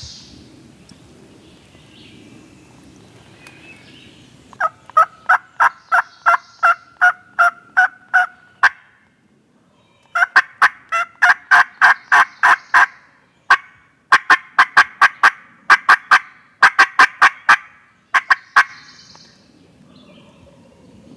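Loud turkey yelping: three long runs of evenly spaced, same-pitched yelps at about three a second, with short pauses between the runs.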